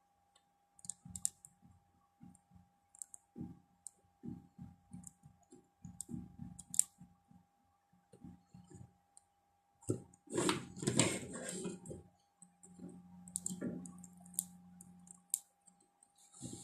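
Scattered small clicks and taps of wires and components being handled and connected on an electronics workbench, busiest around ten to twelve seconds in. A faint steady tone runs underneath, and a low hum sounds for a couple of seconds near the end.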